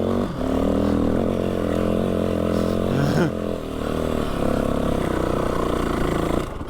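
Trail motorbike engine running under steady throttle on sand, with a quick drop in revs about three seconds in before it pulls again.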